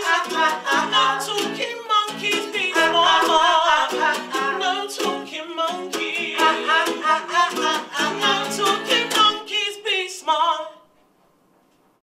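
Closing bars of an acoustic pop song: voices singing over strummed acoustic strings, ending on a final chord about eleven seconds in.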